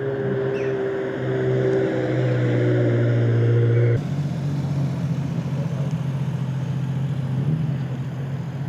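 A car engine running steadily at low revs as the car moves slowly, getting louder over the first few seconds. About four seconds in the sound cuts off abruptly and a second engine carries on at a steady low note.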